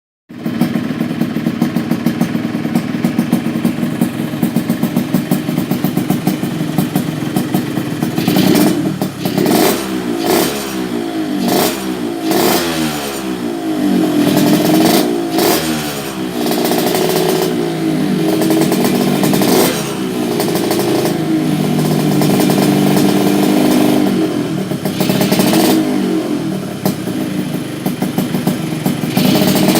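Yamaha RX-King two-stroke single-cylinder engine through an aftermarket under-slung exhaust, described as very crisp and dry. It idles with a fast, uneven putter, then from about eight seconds in it is revved in repeated sharp throttle blips.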